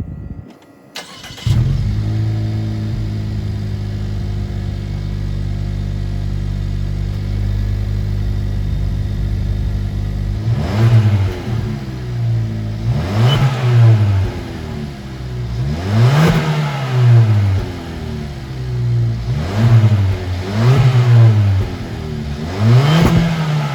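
Suzuki Swift Sport's engine and exhaust: the engine starts about a second and a half in and idles steadily. From about ten seconds in, the throttle is blipped about six times, the revs rising and falling each time.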